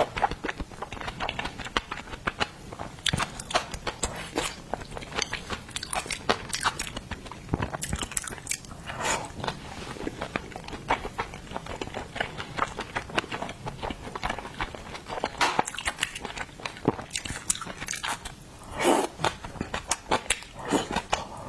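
Close-miked chewing and biting of seafood: a dense, irregular run of wet mouth clicks and smacks, with a few fuller, longer mouth sounds along the way.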